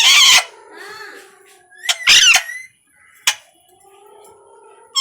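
Pet parrot giving two loud, harsh squawks, one at the start and one about two seconds in, with softer chatter between them and a sharp click a little after three seconds.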